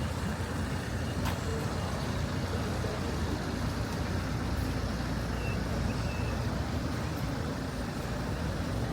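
City street traffic noise: a steady low rumble of road vehicle engines, with a faint click about a second in.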